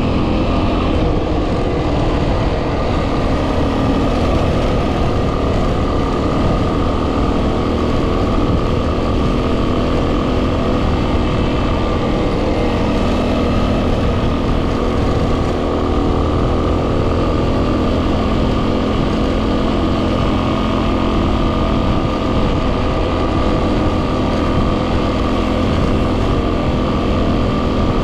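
2010 Yamaha WR250R's single-cylinder 250 cc engine running at a steady speed while riding, with heavy wind buffeting on the microphone.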